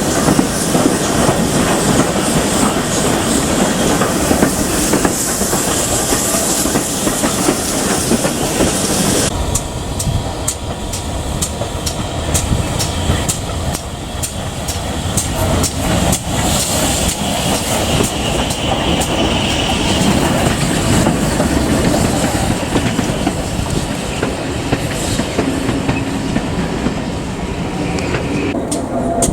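Steam train running on the line, its wheels clattering over the rail joints amid steady running noise. About nine seconds in, the high hiss drops back and the rhythmic clicks of the joints stand out.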